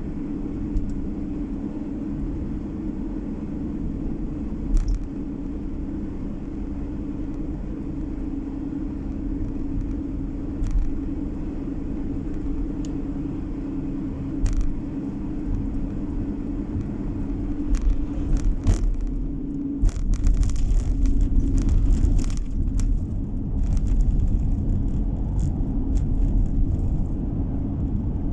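Car driving, heard from inside the cabin: a steady engine and tyre drone with a low rumble and occasional short knocks and rattles. From about twenty seconds in, the rumble grows louder and the knocks come thick and fast.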